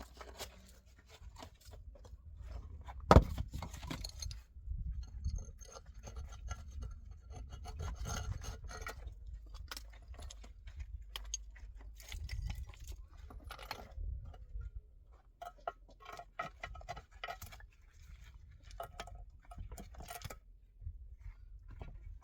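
Irregular scraping and rubbing from hand work on a hard material, with scattered knocks and one sharp loud knock about three seconds in, over a low rumble.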